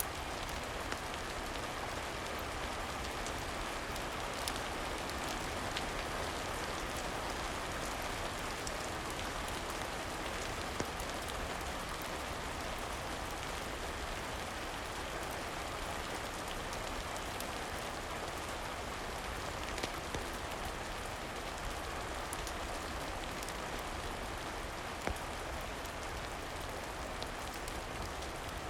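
Steady rain falling, with a few sharp crackles of a wood fire scattered through it.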